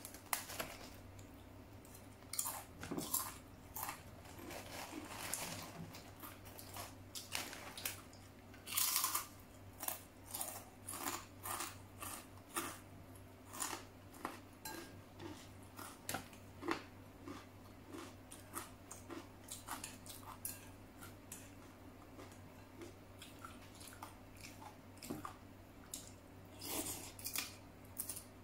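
Close-up eating sounds of someone chewing a mouthful of rice noodles, a steady, irregular run of short chewing and biting noises several times a second. Now and then chopsticks clink against the porcelain bowl.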